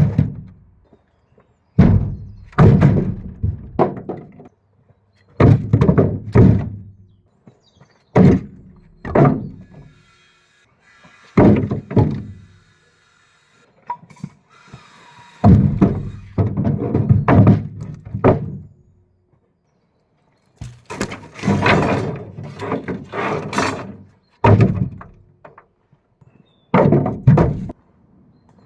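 Chopped firewood logs being tossed down one after another, heavy wooden thunks and clattering knocks. They come in irregular clusters every one to three seconds.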